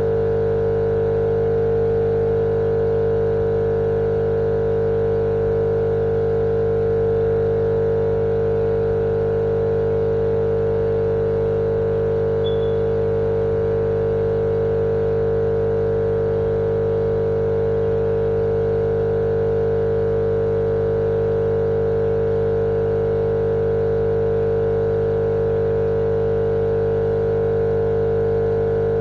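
Steady, unbroken machine-like drone played as baby-sleep white noise: a loud hum with one strong mid-pitched tone over a wash of hiss, with no change in level or pitch.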